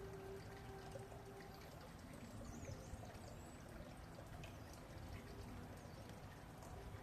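Faint crackling and crunching of a red panda chewing bamboo, with scattered small clicks. A bird chirps faintly about halfway through.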